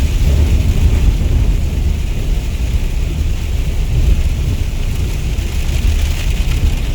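Steady rain falling, a constant hiss over a deep, continuous low rumble.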